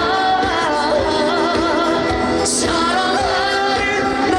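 Live band playing a trot song's accompaniment between sung lines: a wavering melody line over a steady drum beat.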